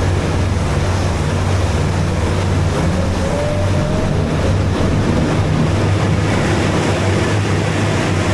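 Small boat's outboard motor running steadily at cruising speed, a low even hum under a rush of noise.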